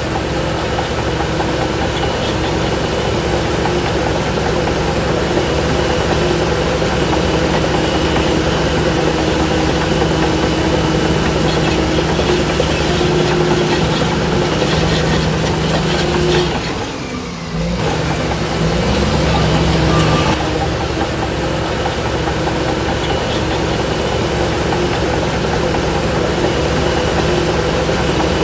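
Heavy diesel engine of earthmoving machinery running steadily under work. About seventeen seconds in, the engine note briefly drops and then climbs back up.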